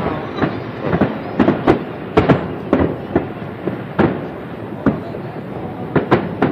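Aerial fireworks shells bursting in a rapid, irregular series of sharp bangs over a continuous rumble, thinning out briefly a little past the middle before picking up again.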